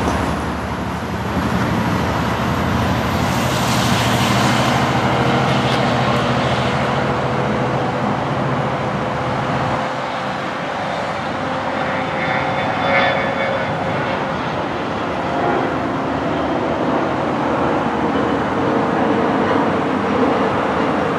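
Commuter train of bilevel passenger coaches rolling past on the rails, a steady rumble of wheels and cars. A low engine hum underneath drops away about halfway through, and a faint steady whine runs along with the rolling noise.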